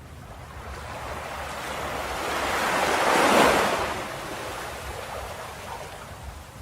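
A single ocean wave rolling in and breaking on the shore: a rushing hiss that builds for about two seconds, peaks about three and a half seconds in, then drains away into a softer wash.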